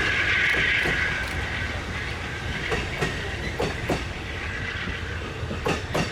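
Train rolling slowly past, its wheels clacking over rail joints in pairs of knocks as each truck crosses, over a steady low rumble. A high steady sound fades out in the first second or so.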